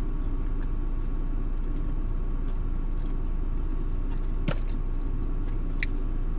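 Steady low rumble of a car's engine idling, heard from inside the cabin. Two short clicks come through about four and a half seconds in and again near six seconds.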